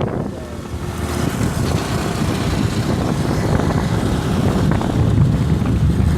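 Wind rushing over the microphone and a motorcycle's low steady engine rumble while riding along a road.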